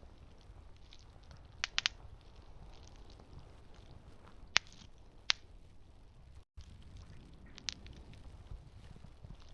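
Campfire crackling over a low steady rumble, with sharp pops: three in quick succession early on, single ones near the middle and another later. The sound drops out for a split second just past the middle.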